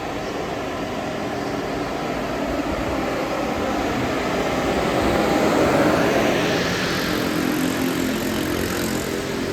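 A London double-decker bus engine running under way, with road noise, growing louder toward the middle with a rising whine and then easing off.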